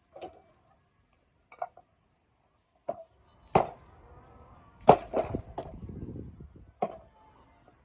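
Firewood being split with a chopping blade: a series of sharp strikes on wood at irregular intervals, the loudest near the middle, one followed by about a second of low crackling rustle.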